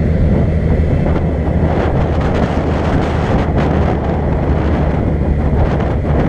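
Steady road and engine noise of a moving car, with wind buffeting the microphone.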